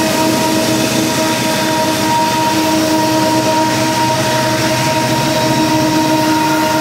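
Loaded coal train's hopper cars rolling past close by: a loud, steady rumble of steel wheels on rail, with a steady whine of several tones over it.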